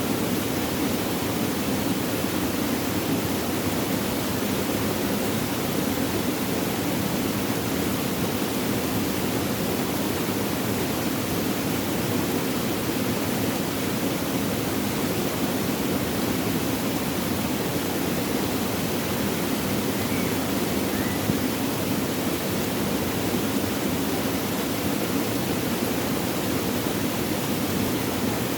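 Flowing water, running in a steady, unbroken rush.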